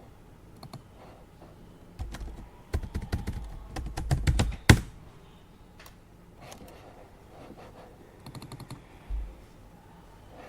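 Typing on a computer keyboard: a quick flurry of keystrokes ending in one hard, loud key strike, then a few scattered key taps later on.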